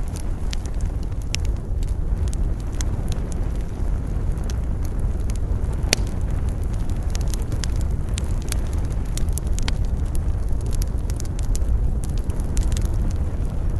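Wood campfire burning, with frequent sharp, irregular crackles and pops over a steady low rumble of wind.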